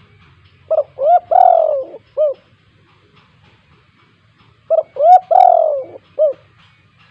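Spotted dove (tekukur) cooing: two identical phrases about four seconds apart. Each has two short coos, a longer falling coo, then one short coo at the end.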